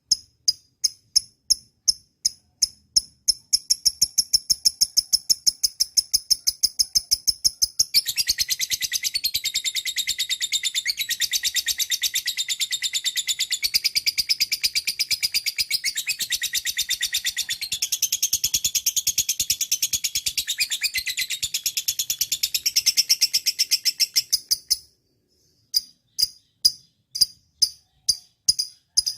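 Lovebird calling in short, high, evenly spaced chirps, about two or three a second, that quicken and then run together into one long, rapid, loud trill. The trill lasts well over ten seconds and cuts off suddenly near the end, after which the spaced chirps resume.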